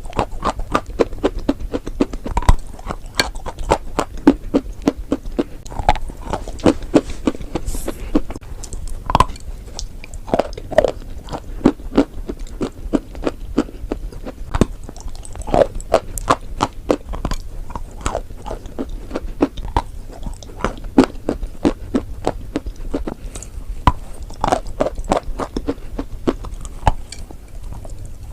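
Close-miked chewing of chalk and clay: many short, crisp crunches, several a second, as the pieces are bitten and ground between the teeth.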